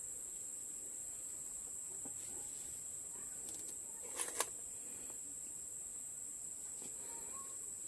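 Faint, steady high-pitched hiss, insect-like, with a couple of light clicks about four seconds in.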